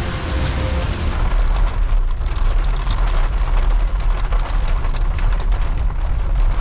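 A long, low rumble of thunder over heavy rain, loud and sustained.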